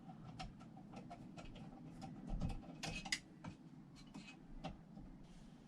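Faint, scattered clicks and light taps of metal parts being handled as an Evinrude outboard's gearbox leg is lined up and fitted, with a few slightly louder knocks about halfway through.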